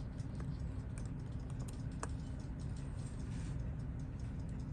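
Light, irregular clicks and taps of small metal watchmaker's tools on the parts of a disassembled Seiko 6139 chronograph case, over a steady low hum.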